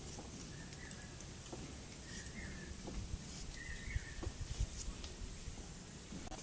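Quiet outdoor ambience: a bird gives three short chirps spaced a second or two apart, over a steady high hiss. A few soft knocks come from hands handling ginger, the loudest about four seconds in.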